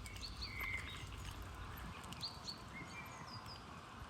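Small birds chirping, short high calls repeated many times and overlapping.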